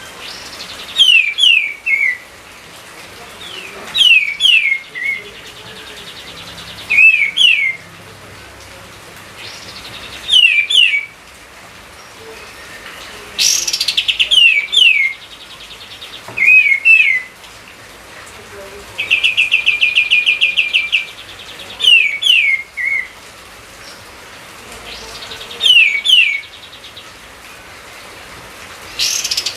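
A songbird singing loud, short phrases of two or three quick down-slurred whistles, repeated about every three seconds. About two-thirds of the way through, it gives a fast, buzzy trill lasting around two seconds.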